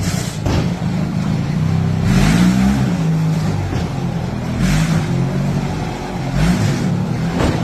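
A motor vehicle's engine running, its pitch rising and falling several times, with short bursts of hiss about two, five, six and a half and seven and a half seconds in.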